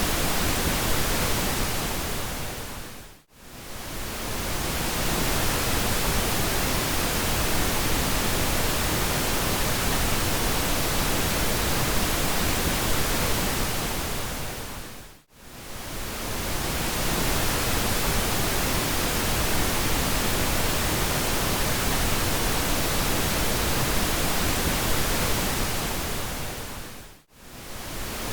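Steady pink noise, an even hiss-like rush spread across all pitches. It fades briefly to near silence and back three times, about every twelve seconds.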